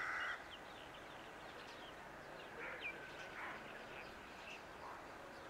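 Birds calling and chirping over faint outdoor background hiss: a loud harsh call ends just as it begins, short high chirps follow throughout, and two fainter harsh calls come about three seconds in.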